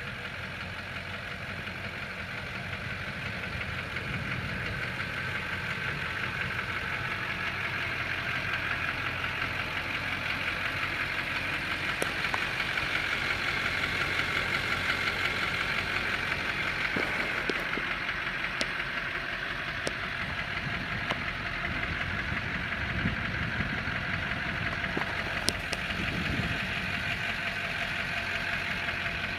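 Chevy diesel truck engine idling steadily with a knocking diesel clatter, with a few light ticks.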